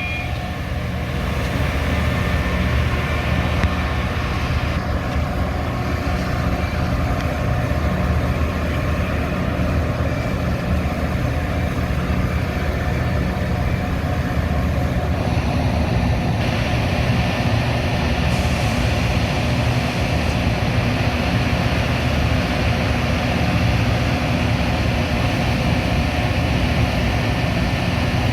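Metra commuter train running along the track, a steady low rumble of wheels and coach with no let-up.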